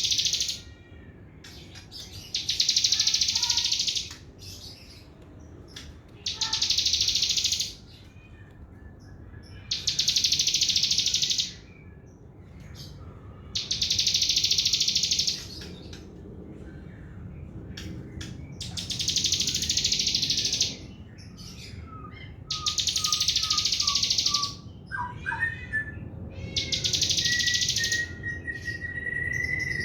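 Sogon songbird singing a fast 'trotol' chattering trill in high bursts of about two seconds, repeated roughly every four seconds. Softer whistled notes join in near the end.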